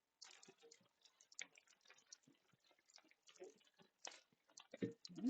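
Near silence with faint, irregular small clicks and crackles and a few soft knocks.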